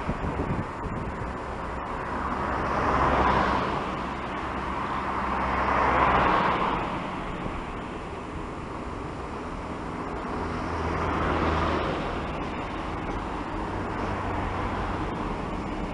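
SNCF locomotive passing slowly at the head of a freight train, with a steady low hum and a rolling noise that swells and fades three times.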